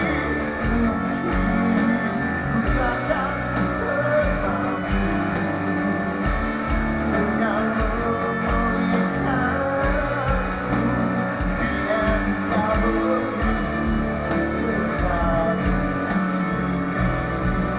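Rock band music with guitar and a steady beat, an instrumental passage without sung words.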